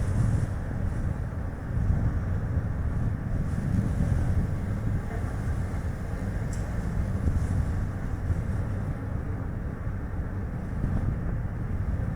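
Strong gusting wind on the microphone, rising and falling, over steady tyre and road noise from a moving Chevrolet Spark light car.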